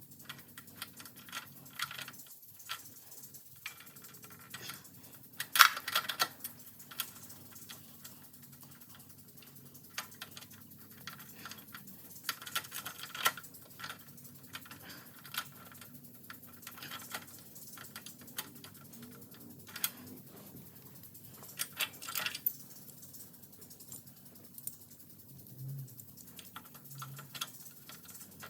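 Irregular clicks, taps and clinks of hand tools and metal parts while new foot pegs are bolted onto a mini bike frame, with louder clattering about a third of the way in, around the middle and again later on.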